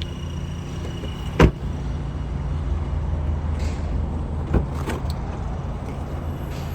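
A car door of a 2010 Honda CR-V shut with one solid thud about a second and a half in, then two lighter clunks a few seconds later, over a steady low hum.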